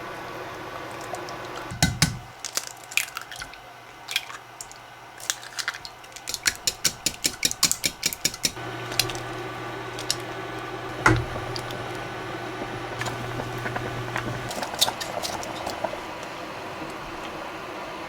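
Kitchen work: dishes and utensils clinking and knocking, with a quick, even run of taps a few seconds in and one louder knock near the middle. A low, steady hum runs for several seconds in the middle.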